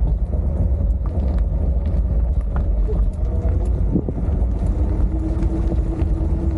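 Wind rushing over the camera's microphone while riding, a steady low rumble with scattered faint clicks, and a thin steady hum coming in about two-thirds of the way through.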